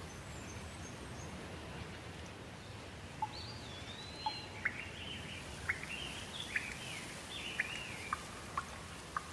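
Steady rain with birds singing over it: from about three seconds in, warbling phrases and sharp short chirps that come roughly once a second.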